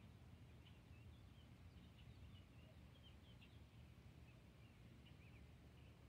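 Near silence: faint, scattered bird chirps, short calls of varying pitch, over a low steady rumble of background noise.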